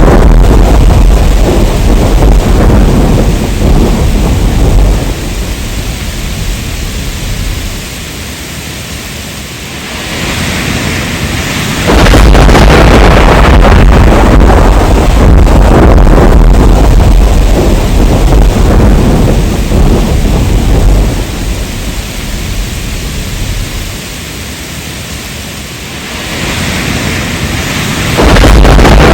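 Heavy rain with deep rumbling thunder. The loud rumble eases after about five seconds into steadier rain hiss, then starts again abruptly about twelve seconds in and again near the end, the same stretch repeating about every sixteen seconds.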